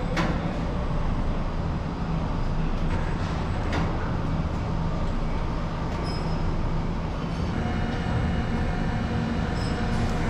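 Electric train running on rails: a steady low rumble, with sharp clicks about a second apart near the start and again about three and a half seconds in. Faint steady tones join the rumble about two thirds of the way through.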